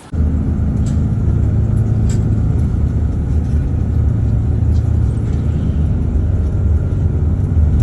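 Motor vehicle running with a steady, loud low drone that cuts in suddenly at the start.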